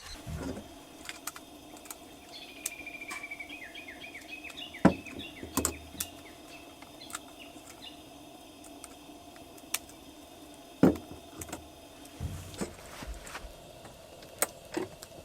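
A small bird sings a short run of chirps that falls in pitch, among several sharp knocks and clicks, the loudest two about five and eleven seconds in, over a steady low hum.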